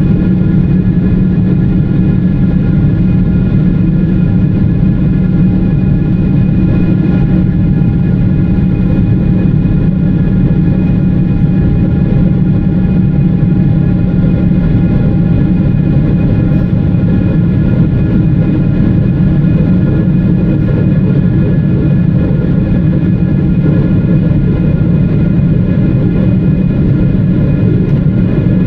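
Cabin noise inside a Boeing 777-300ER climbing out after takeoff: a steady rush from its GE90-115B engines and the airflow, with several steady whining tones over it.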